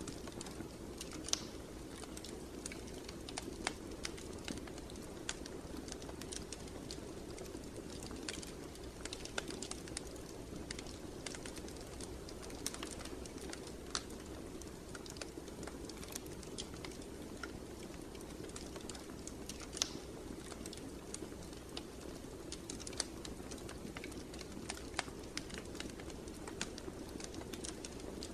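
Fireplace fire crackling: irregular sharp pops and snaps, a few louder than the rest, over a steady low rumble of the flames.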